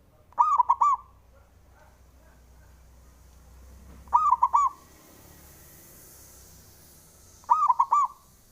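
Zebra dove (perkutut) cooing: three short phrases of about four quick, ringing notes each, spaced about three and a half seconds apart.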